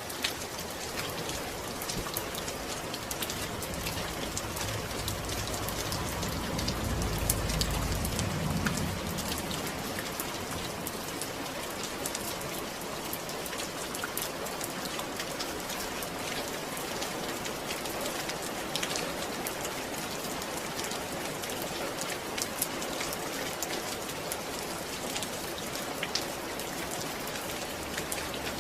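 Steady rain falling, an even hiss dotted with sharp ticks of individual drops. A low rumble swells and fades about six to eight seconds in.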